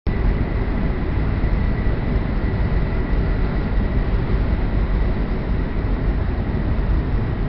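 W7 series Shinkansen cabin running noise: a steady low rumble and rush of the train in motion, with a faint high tone in the first few seconds.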